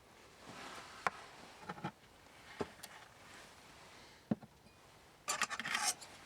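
Burning firewood crackling: a few sparse sharp pops, then a short dense flurry of crackles about five seconds in.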